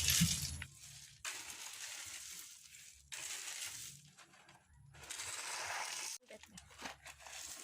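Gravel being worked and spread over the septic tank's metal cover: four rough scrapes, each about a second long, with short pauses between them.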